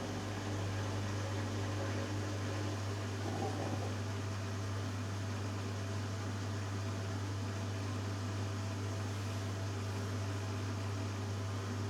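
Hoover Dynamic Next front-loading washing machine in its final spin, running steadily: a constant low motor hum over an even rushing noise.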